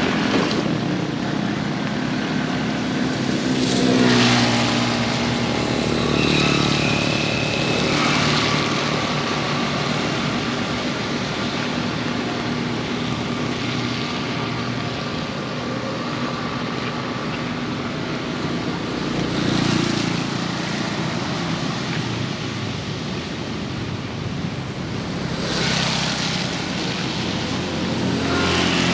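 Heavy rain falling steadily, with motor vehicles passing by on a wet road; their engine hum swells and fades several times.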